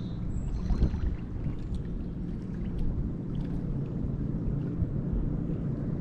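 Motorboat engine running steadily out on the river, a low drone, with a brief knock about a second in.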